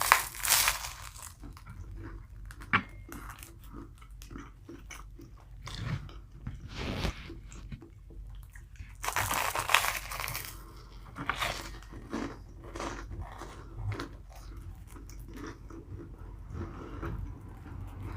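Close-up chewing and biting of a meatball sub on a toasted roll, with crusty crunches and wet mouth sounds in irregular bursts; the loudest bites come at the start, about seven seconds in, and around ten seconds in.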